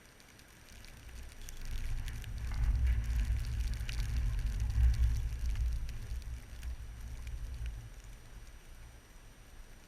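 A gust of blizzard wind buffeting the microphone, building about a second in, peaking midway and easing off near the end, with scattered light ticks over it.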